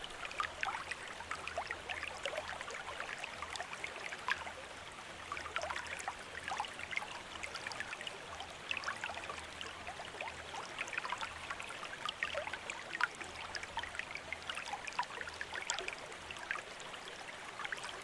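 Bamboo water fountain: water trickling and splashing steadily, with many small drips and plinks throughout.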